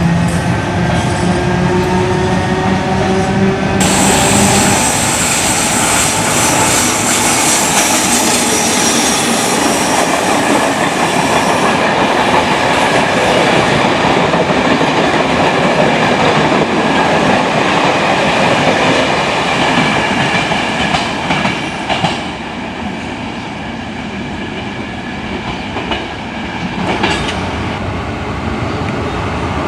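A train running on the rails, loud and continuous, with clickety-clack of the wheels. A whining tone is heard in the first few seconds, then a high, hissing wheel noise from about four seconds in to about twelve seconds. The sound grows a little quieter near the end.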